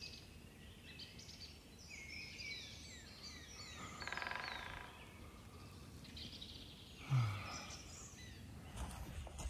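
Several songbirds chirping and trilling in woodland, with one brief low sound about seven seconds in, the loudest moment. Rustling noise sets in near the end.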